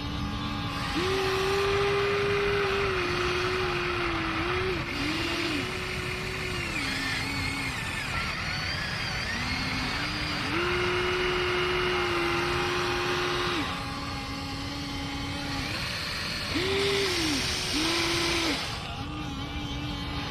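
RC excavator's electric motors whining in steady tones that step up and down in pitch, cutting out and starting again every few seconds as the machine works.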